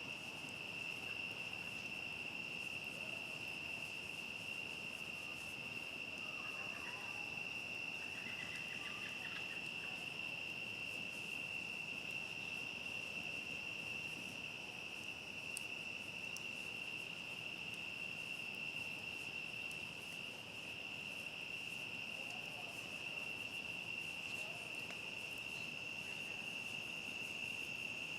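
A chorus of crickets trilling in one steady, unbroken high-pitched tone, with a few faint crackles from a campfire.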